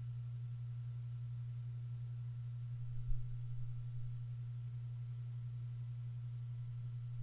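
A steady low hum on a single pitch, with a faint higher steady whine above it and a brief low thump about three seconds in.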